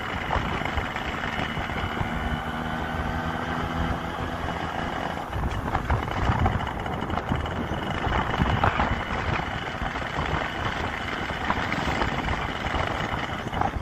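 Yamaha RX 100's two-stroke single-cylinder engine running at a steady cruise as the motorcycle rides along, mixed with rushing wind.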